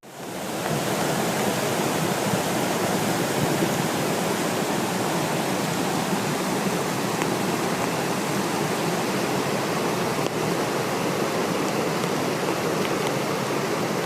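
Fast-moving floodwater rushing steadily with an even, unbroken sound.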